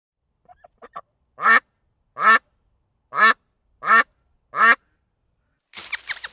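Duck quacking: four soft, short quacks, then five loud quacks spaced roughly a second apart. Near the end a different, busier run of high calls begins.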